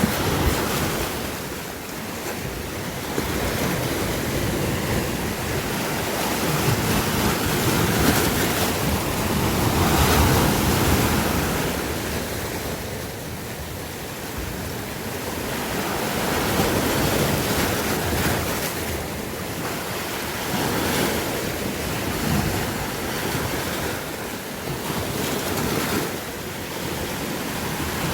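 Sea waves breaking and washing on the shore: a continuous rush that swells and ebbs every few seconds.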